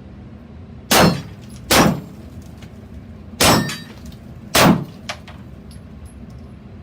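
Four gunshots in an uneven rhythm, two close together, then a pause, then two more, as frangible rounds are fired at close range at steel targets, each shot with a short metallic ring.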